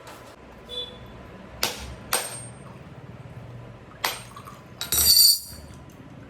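Kitchenware being handled: several separate knocks and clinks of utensils or dishes, then a louder clatter with a bright metallic ringing about five seconds in.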